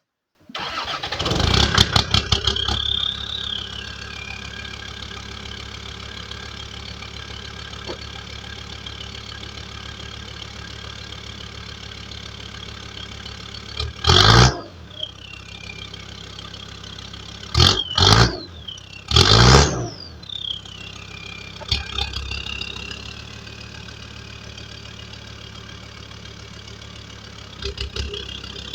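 Land Rover engine cranked and catching about half a second in, then idling steadily. It is revved briefly several times in the middle, each rev followed by a whine that falls away.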